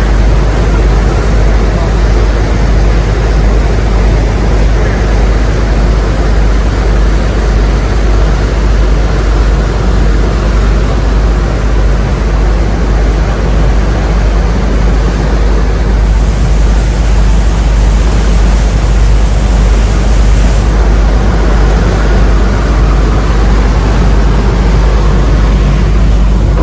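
Passenger ferry New Kasaoka underway: a steady, loud diesel engine drone with a deep rumble under an even rushing of wind and water.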